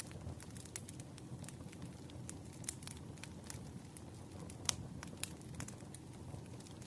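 Firewood burning, crackling with irregular sharp pops over a low steady rumble of the flames. A louder pop comes about two-thirds of the way through.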